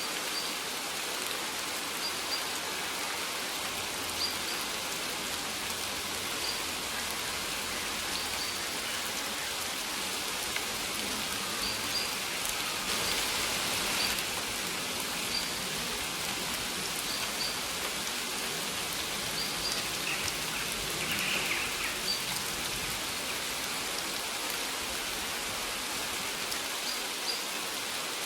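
Steady rain falling, an even hiss of drops, with short high bird chirps recurring every second or two.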